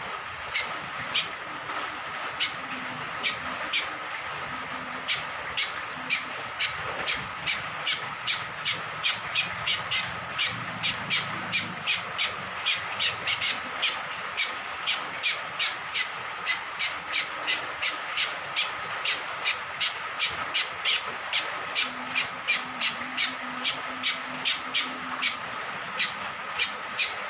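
Cucak kombok (kecial kombok) honeyeater calling: a long series of short, sharp, harsh notes. They come a few at a time at first and then about three a second from roughly five seconds in, over a steady hiss of rain.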